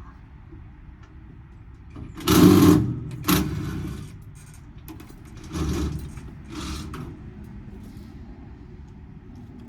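Four short rasping, scraping noises, the first about two seconds in and the loudest, the others following over the next five seconds.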